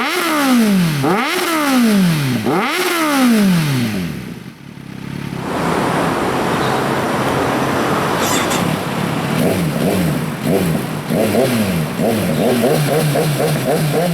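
Kawasaki Z900's inline-four engine through a generic stainless aftermarket muffler, catalytic converter removed, revved in three quick blips that rise and fall in pitch. The sound then dips briefly. From about halfway it runs on with a steady rushing noise over an engine pitch that wavers up and down.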